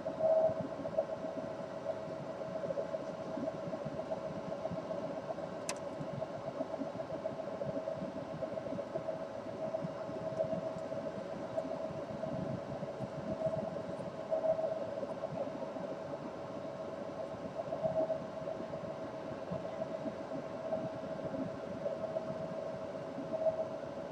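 A steady machine hum with one constant mid-pitched tone over a noisy hiss, and a single sharp click about six seconds in.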